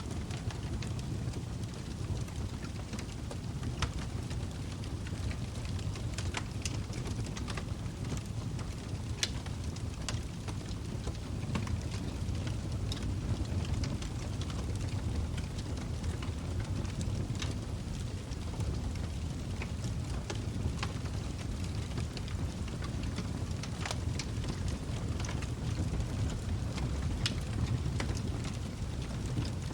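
Log fire burning in a fireplace: a steady low rush of flame with irregular sharp crackles and pops from the burning logs scattered throughout.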